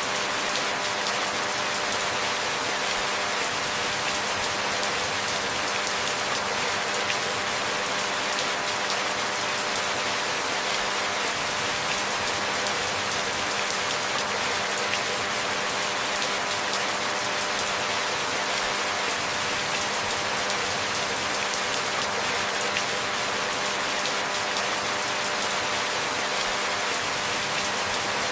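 Steady rain falling: an even, dense hiss of many fine drops, without changes. A faint steady hum sits underneath.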